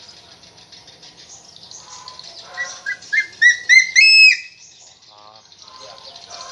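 A captive eagle calling: a run of about eight short, shrill notes that climb in pitch and grow louder, ending in a longer, loudest note.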